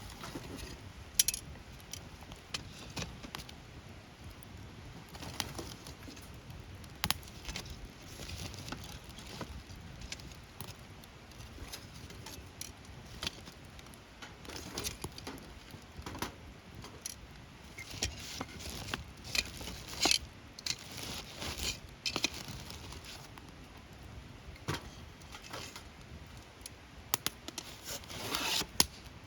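Wood campfire crackling: irregular sharp pops and snaps over a soft low rush. The snaps come thicker for a few seconds about two-thirds of the way through.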